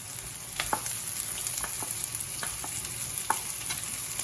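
Hot oil sizzling in a pan where onions are going in on top of fried whole spices, ginger and garlic for a curry, with scattered sharp pops and clicks.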